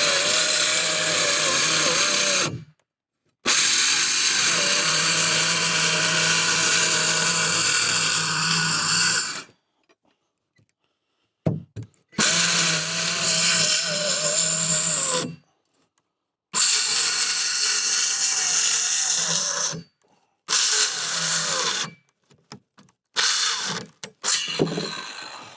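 Battery-powered power saw cutting, its motor running in several bursts of a few seconds with a wavering whine. Each burst cuts off abruptly, and near the end there are only short, broken spurts, while the battery is nearly flat.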